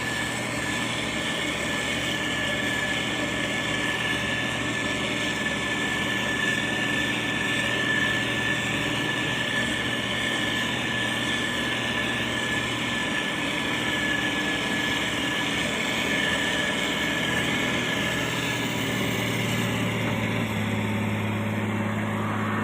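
Diesel engine of heavy road-construction machinery running steadily, with a constant high whine over it; the engine note shifts a little about halfway through and again near the end.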